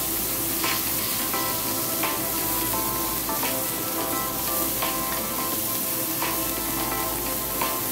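Diced carrots and garlic sizzling in oil in a non-stick wok as a spatula stirs them, a steady frying hiss. Background music with held notes plays under it.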